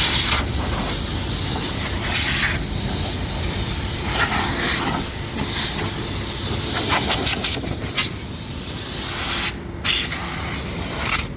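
A high-pressure jet hissing loudly as it is used to clean a car's engine bay, surging and easing as it is worked about, with a brief pause near the end.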